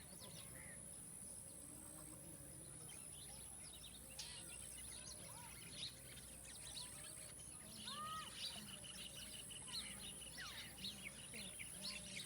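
Outdoor farmland ambience with many birds chirping in short calls that grow busier in the second half, over a steady high-pitched tone. A fast, even trill runs for a couple of seconds about eight seconds in.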